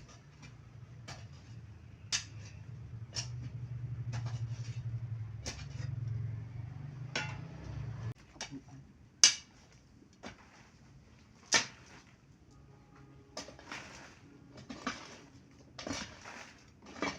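Irregular knocks and metallic clinks of objects being handled, two of them sharper and louder near the middle, with a low steady hum through the first half that stops abruptly.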